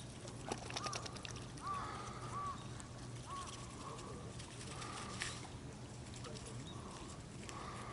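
Waterfowl calling: a run of short honking calls about a second apart in the first few seconds, with a few sharp clicks among them.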